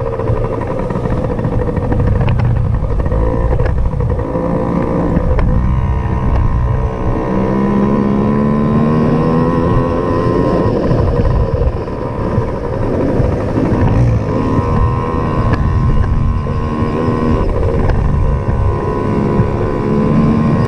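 Small dirt bike engine running, its pitch rising and falling as the throttle is worked.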